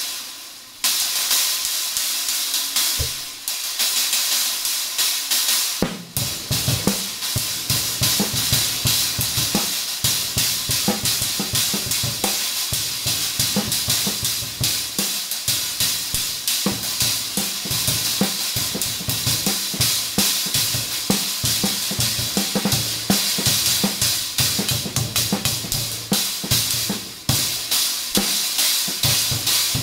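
A 20-inch paper-thin B8 bronze trash cymbal struck on its own with sticks, a few washy crashes ringing out, then from about six seconds in a drum beat on a kit with bass drum and snare, the trash cymbal ridden and crashed throughout.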